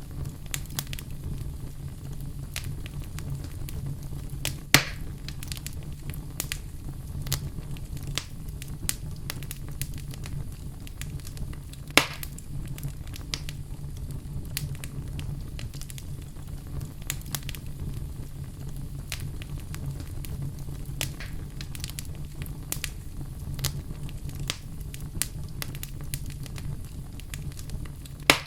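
Wood fire burning in a fireplace: frequent small crackles over a steady low rumble, with a few louder sharp pops, about five seconds in, at twelve seconds and near the end.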